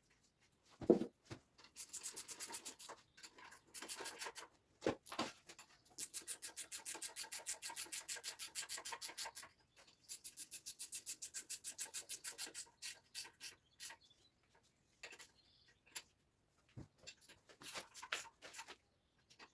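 Quick back-and-forth rubbing or scraping strokes, several a second, in runs of a few seconds with short pauses between them. A single sharp knock sounds about a second in.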